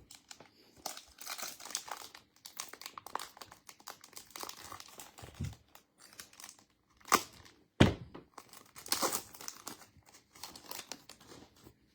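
A Panini football trading-card pack wrapper being torn open and crinkled by hand, in irregular crackles with a few louder rips in the middle.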